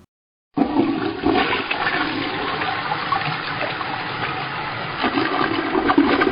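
A toilet flushing: loud rushing, gurgling water that starts suddenly about half a second in and is cut off abruptly near the end.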